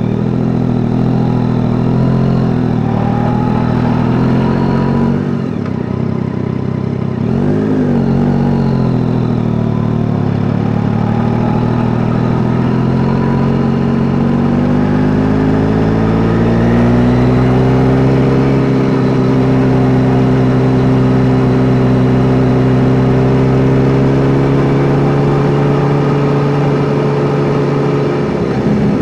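Yamaha Tracer 9 GT's 890 cc inline-three engine running under way. It eases off and wavers several seconds in, then climbs in pitch and holds steady at higher revs for about ten seconds before dropping right at the end.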